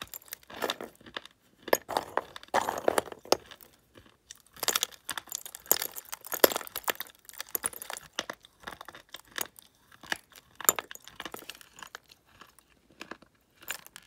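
Close-miked chewing of soft slate pencils: crisp, gritty crunching in irregular bouts with short pauses between bites.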